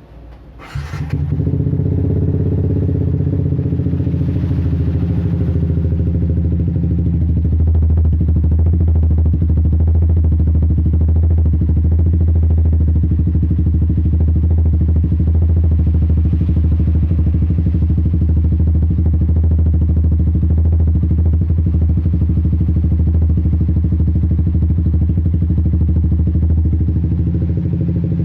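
Yamaha Vixion NVL motorcycle's single-cylinder four-stroke engine starting about a second in, then running steadily through a Raptor racing exhaust fitted with a full-baffle silencer.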